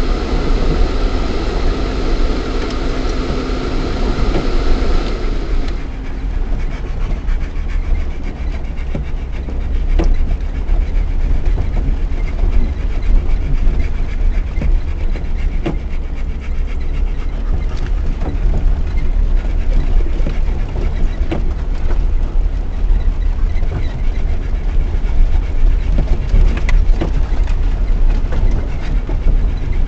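Lada Niva 1.7i four-cylinder petrol engine and drivetrain heard from inside the cabin while driving off-road, a steady low rumble with scattered knocks and rattles from the body and suspension over rough ground. A brighter, louder layer with a steady whine stops abruptly about six seconds in.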